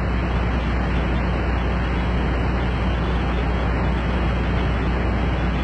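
Idling truck engine: a steady low hum with an even hiss over it.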